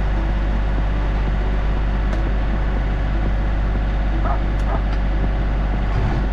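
Tractor engine running steadily, a low continuous drone.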